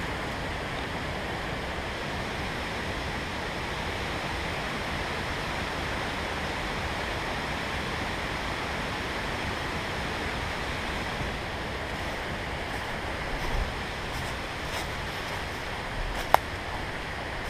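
Steady rushing of creek water, with a few light clicks near the end and one sharp click about a second before the end.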